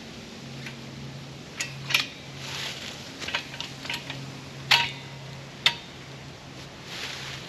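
A handful of sharp clinks and clatters, like cookware or utensils being handled, over a steady low hum.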